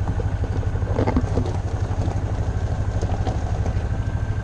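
Engine of the vehicle being ridden in, running steadily with an even low pulsing, with a few light rattles about a second in.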